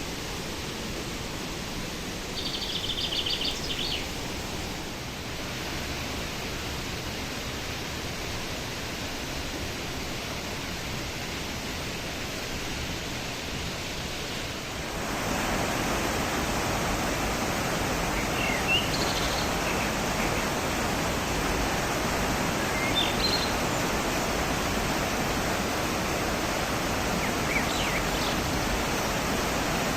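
Steady rush of the Düden waterfall's falling water, stepping up louder and fuller about halfway through. Short high bird chirps sound over it a few seconds in and several times in the second half.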